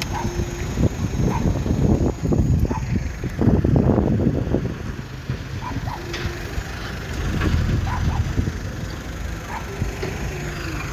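Heavy earthmoving machinery running with a low diesel rumble that swells twice, about two seconds in and again around four seconds, with a few short squeaks and clinks over it.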